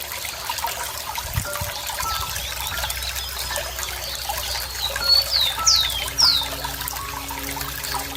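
Running water trickling and gurgling steadily. About five seconds in, a bird gives three quick whistled calls, each sweeping down in pitch; these are the loudest sounds.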